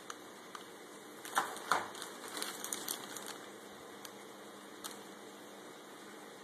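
A few small clicks, then a short cluster of sharp clicks and clattering, about a second and a half in, over a faint steady hum.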